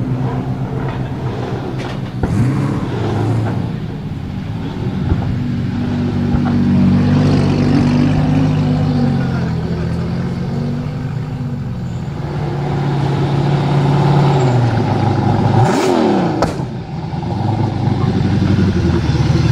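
Drift car's engine running loudly, its revs rising and falling, with a sharp dip and quick rise in pitch near the end.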